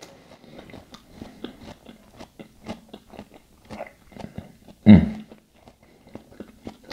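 A person chewing a mouthful of spicy pork taco, many small wet mouth clicks throughout, with one brief louder sound about five seconds in.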